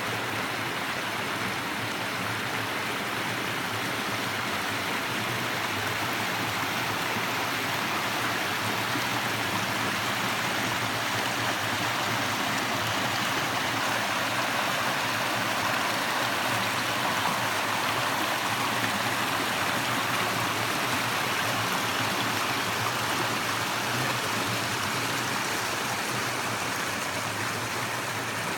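Creek water running and gurgling over rocks, a steady rushing flow.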